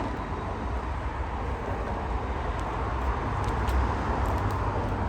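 Straight-piped, cammed V8 car exhaust idling with a steady low rumble, really loud.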